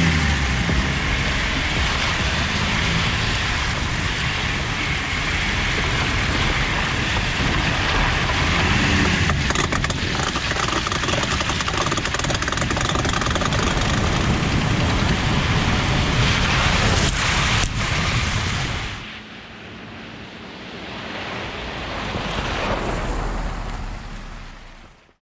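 Vehicle on the move: a steady rush of wind and road noise. It drops away suddenly about three-quarters of the way through, swells briefly, then fades out.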